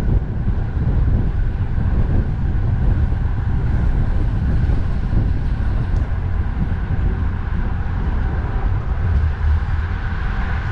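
Steady wind rumble on the microphone of a moving cyclist's camera, mixed with the noise of road traffic.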